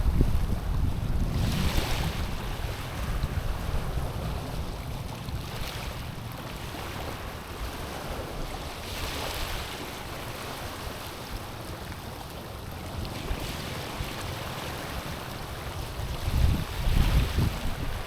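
Small waves lapping on a stony shore, each wash a brief hiss that comes about every four seconds. Wind buffets the microphone in low rumbles, strongest near the start and again near the end.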